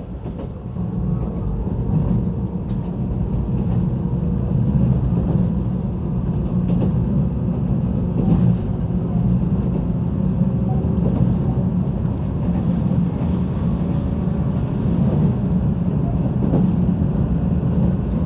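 JR 185 series electric train running, heard from inside the passenger cabin: a steady low rumble of wheels and running gear, with faint steady tones and a few brief clicks.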